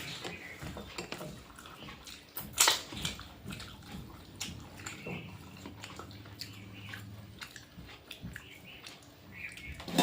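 Wet eating sounds: squelching and small clicks from mixing and eating rice with a thin curry, with one louder clatter about two and a half seconds in.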